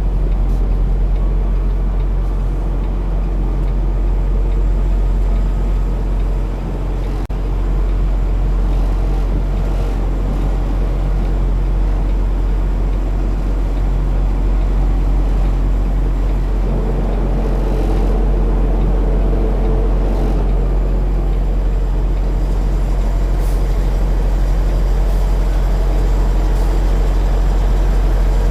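Semi truck's diesel engine running steadily at low revs while the rig reverses, a continuous low drone.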